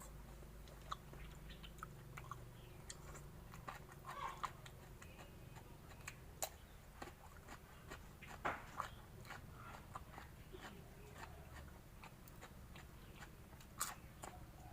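A person chewing a big mouthful of raw shrimp salad up close: quiet, wet chewing with scattered crisp clicks and crunches.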